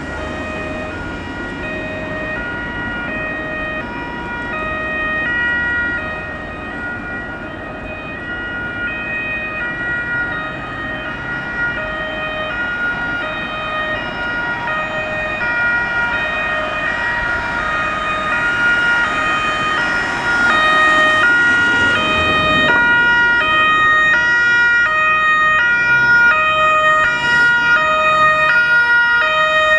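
Two-tone sirens of two Fiat Qubo police cars, alternating high and low notes over road traffic noise. They grow louder from about 20 seconds in, where the notes change faster and the two sirens sound together.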